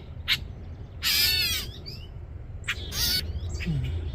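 Parent bird's harsh scolding squawks, three calls: a short one at the start, a longer one about a second in, and another near three seconds. These are alarm calls of a parent upset by people handling its fledgling.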